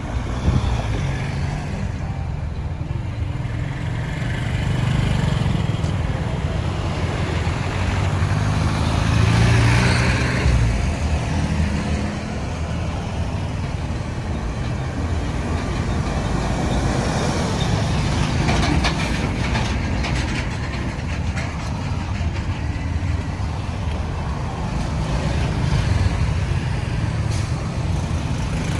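Road traffic: a steady rumble of vehicle engines and tyres, with one vehicle louder as it passes about ten seconds in.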